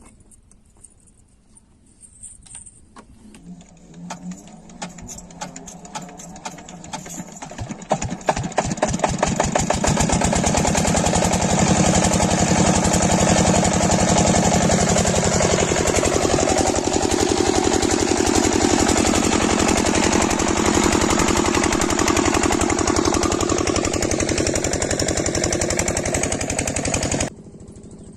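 Stationary diesel pump-set engine starting up, its beat quickening over several seconds before it settles into a loud, steady run. The sound cuts off suddenly near the end.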